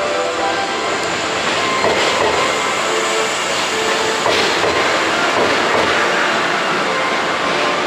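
413-series electric multiple unit train pulling into a station and passing close by: a steady rumble of wheels on rail with scattered clacks over the track, and a few faint steady tones.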